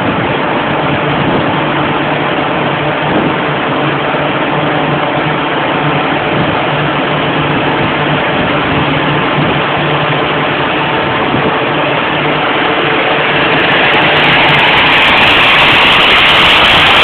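Tyres humming and whistling on chassis-dynamometer rollers during a power run, with the Skoda 1.8 TSI engine running under load. The sound is steady, then grows louder and brighter about three-quarters of the way through.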